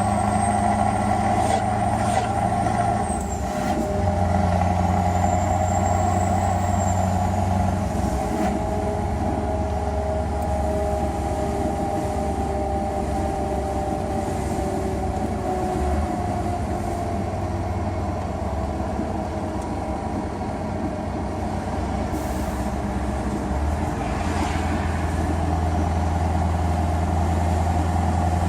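Scania R500 V8 truck engine with an open, straight-through exhaust, running steadily. Partway through, one tone in its sound slowly falls in pitch.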